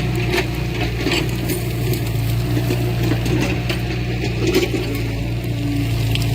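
Diesel engine of heavy earthmoving machinery running steadily, with scattered short metallic clanks and clicks over it.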